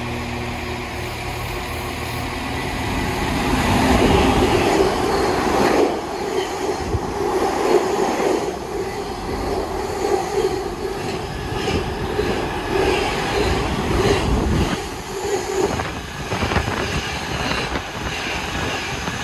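A train running past on the rails. A steady low drone at first grows louder about four seconds in, then comes rough wheel-on-rail noise with scattered clicks.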